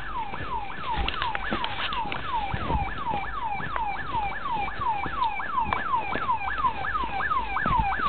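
Electronic siren sounding a rapid repeating falling whoop, about three sweeps a second, over low rumbling noise and a few knocks.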